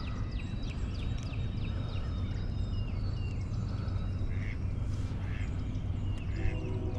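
Many short, quick chirping calls from birds around the pond, repeating throughout, over a steady low rumble.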